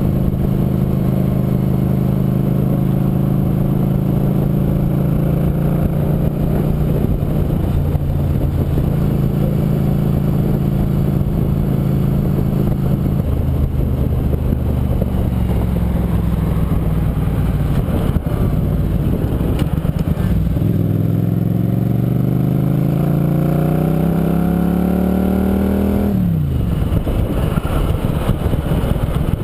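Motorcycle engine running under way, holding a steady speed at first; about twenty seconds in it rises steadily in pitch as it accelerates, then drops abruptly near the end, as at a gear change.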